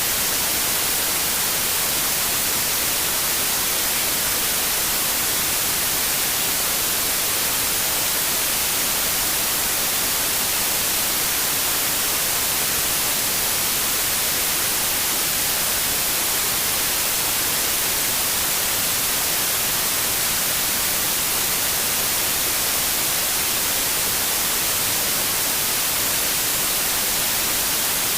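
Steady white noise: an even, unchanging hiss spread across all pitches, brightest in the highs.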